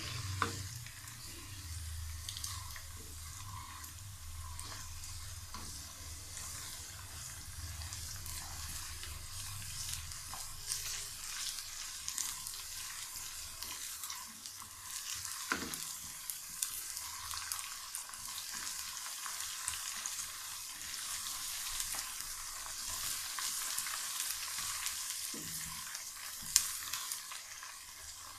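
Browned onions and ginger-garlic paste sizzling in hot oil in a nonstick wok, stirred with a spatula that scrapes and taps the pan now and then. The sharpest tap comes near the end.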